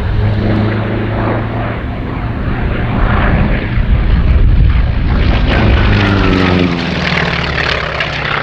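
North American T-28B Trojan's Wright R-1820 nine-cylinder radial engine and propeller running hard on a display pass. It is loudest about halfway through, then the pitch drops as the aircraft goes past.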